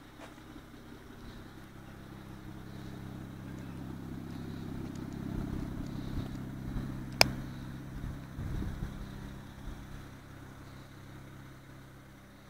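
BMW 335i's turbocharged straight-six running through a Performance exhaust, its note swelling steadily over several seconds and then fading away. A single sharp crack stands out near the peak, about seven seconds in.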